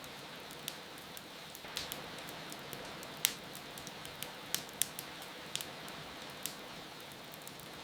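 Wood fire crackling, with irregular sharp pops and snaps, the loudest about three seconds in, over a steady hiss of rain.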